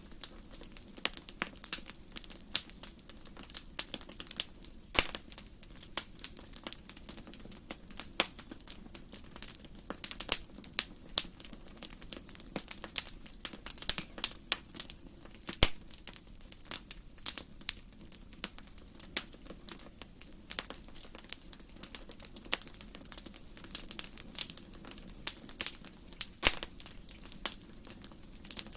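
Wood fire burning in a fireplace, crackling with many irregular sharp pops, a few of them louder, over a faint low steady hum.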